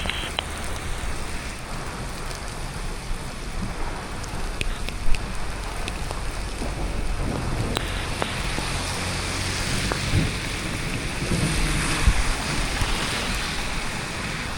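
Steady rain falling, growing heavier about halfway through, with wind buffeting the microphone and a single sharp click about five seconds in.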